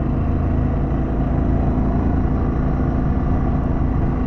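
Harley-Davidson Pan America's V-twin engine running steadily while riding at a constant speed, mixed with wind and road noise.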